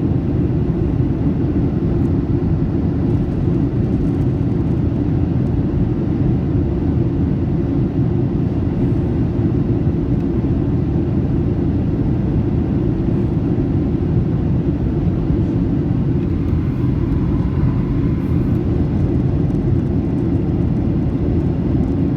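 Steady low rumble of engine and airflow noise in the cabin of a Boeing 737-800 on approach, its CFM56-7B turbofans running. The noise is even throughout, with its weight in the low end.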